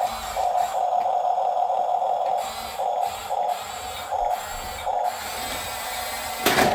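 Electric drive motors and gearbox of a Huina 1:16 RC bulldozer running with a steady whine that starts and stops in spurts as it is driven. A brief loud noise comes near the end.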